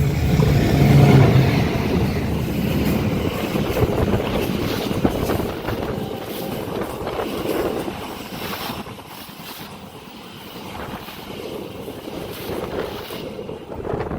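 A train passing close by at speed: a loud rumble and rush of wheels on the rails that fades after about six seconds to a quieter, uneven rushing.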